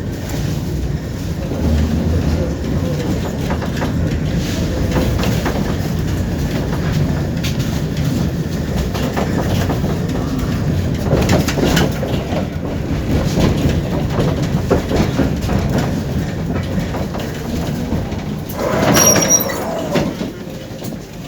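Tram running on its rails: a steady low rumble with many clicks of the wheels over rail joints. About nineteen seconds in comes a brief high-pitched squeal of metal.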